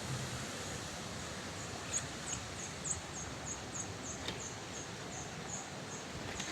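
A small animal's high, thin chirp repeats about three times a second, starting about two seconds in, over a steady outdoor hush. A few soft crackles of footsteps on dry leaves come through now and then.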